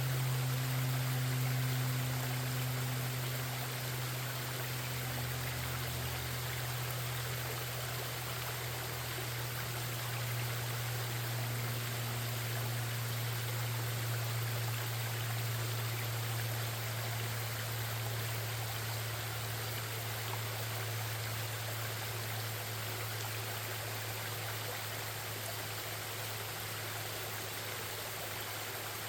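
Forest stream flowing and babbling, a steady rush of running water, with a steady low hum underneath.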